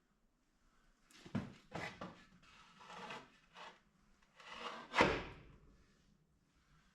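Wheel chocks being handled and pushed into place against a tractor's front wheels: a run of scraping, rubbing knocks, the loudest about five seconds in.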